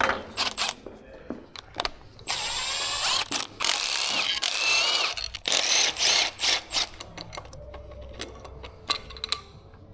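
Hand tools working on engine fasteners: ratchet clicks and metal knocks, with a power tool whirring in several spurts through the middle.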